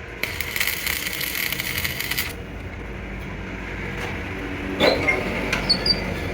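Cutting tool scraping against a spinning steel axle on a lathe for about two seconds, then a few sharp metallic knocks and pings near the end.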